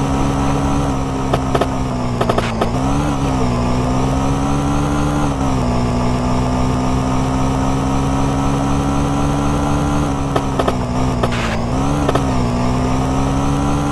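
Small moped engine running steadily at high revs under way, its pitch dipping briefly and picking back up twice, about three seconds in and again near twelve seconds, with a few short knocks.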